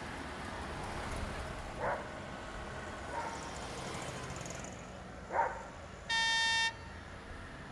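A horn sounds once, near the end: a short, steady, single-pitched beep of about half a second. Before it, two brief sharp sounds come over a steady background of traffic noise.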